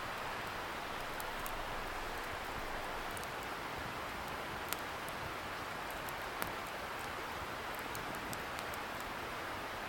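Wood bonfire crackling with scattered small ticks and two sharper pops near the middle, over the steady rushing hiss of a river some way off.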